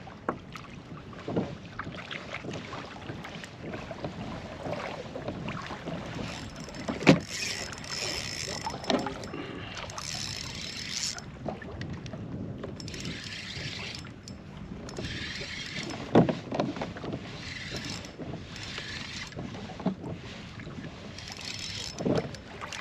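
Water sounds around a pedal kayak under way, with patches of splashing hiss and a few sharp knocks, the loudest about seven seconds in. Wind on the microphone.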